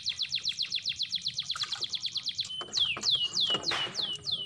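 A bird singing: a fast, even run of high falling chirps, about ten a second, that changes about halfway through into slower, longer falling notes, about three a second.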